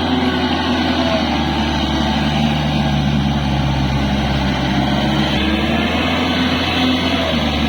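Kubota L4503 tractor's diesel engine running steadily while it drives a 5-foot rotavator through a wet paddy field, its pitch shifting slightly a couple of times.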